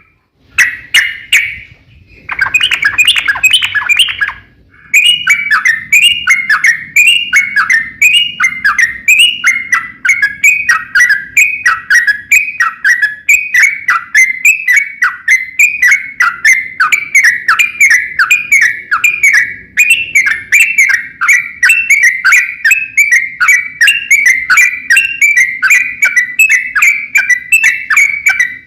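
Yellow-vented bulbul (trucukan) song: a long, fast run of repeated bubbly phrases, each falling in pitch, about two a second, with a short break about four seconds in. Loud, with a crackle of sharp clicks throughout.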